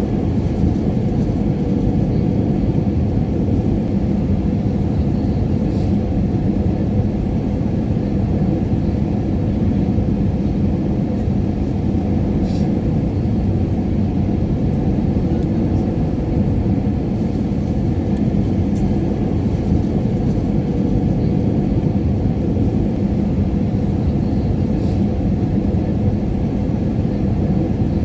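Steady low rumble of airliner cabin noise in flight, with a faint constant hum and no change in level.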